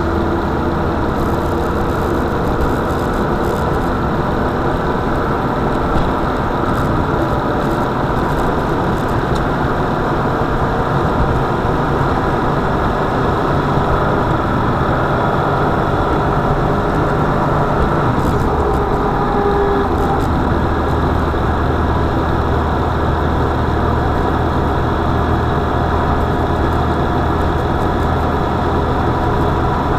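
A car's engine running steadily, with a low hum that drops briefly about two-thirds of the way through and then returns.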